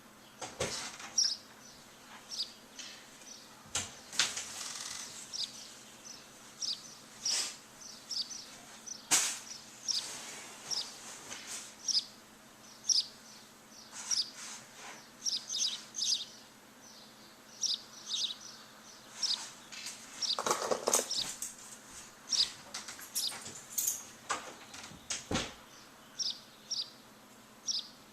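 Small birds chirping, many short high chirps repeated a few times a second, with a few brief louder rustling sounds mixed in, the longest about two-thirds of the way through.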